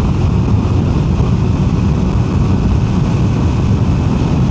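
QJMotor SRK 921 RR's 921 cc inline-four running steadily under way, with wind and road rush over the on-bike microphone.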